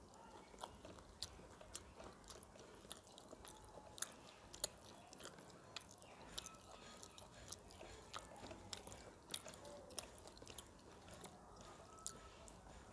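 A person chewing a mouthful of rice and fish close to the microphone: faint, quick mouth clicks and smacks, a few each second.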